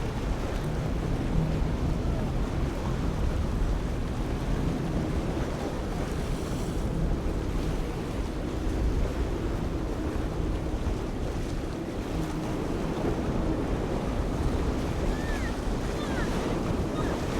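Wind buffeting the microphone over surf and waves, with the steady drone of boat engines running.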